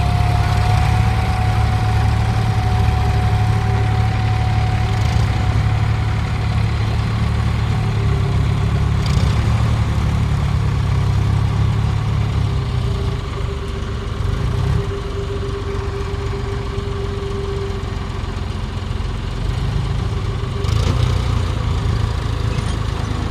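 Mahindra 275 DI tractor's three-cylinder diesel engine idling steadily.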